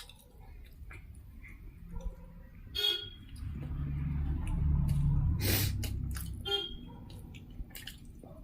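A low engine hum that swells and fades over about four seconds, like a motor vehicle passing by, with scattered small clicks.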